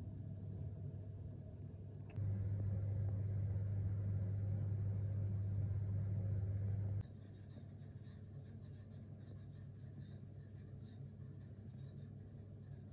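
Steady low electric hum of a running appliance. It grows louder about two seconds in and drops back about five seconds later, with faint ticking after the drop.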